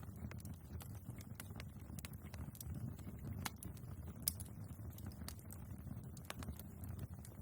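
Log fire burning in a fireplace: irregular crackles and sharp pops over a low, steady sound of the flames, with one louder pop a little past the middle.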